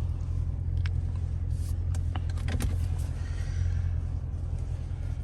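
A car engine idling with a low steady rumble, with scattered light clicks and rustles over it.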